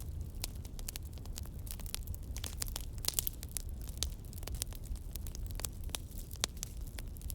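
Campfire crackling, with frequent irregular snaps and pops over a steady low rumble.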